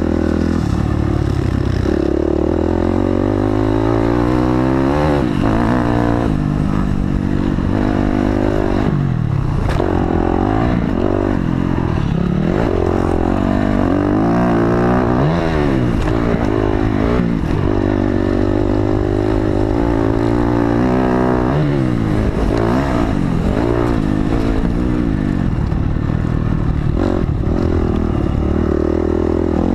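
Honda CRF250X dirt bike's 250 cc four-stroke single running hard while ridden, its pitch rising and falling over and over as the throttle is opened and shut, with sudden drops between climbs.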